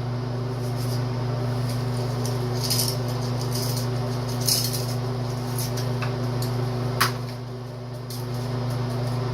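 Light clinks and clicks of small carburetor parts and tools being handled on a work surface, a few separate taps spread through, over a steady low hum.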